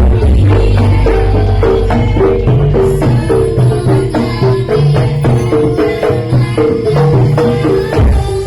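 Live Javanese jaranan gamelan music: tuned metal percussion plays a quick repeating melody over steady drum strokes.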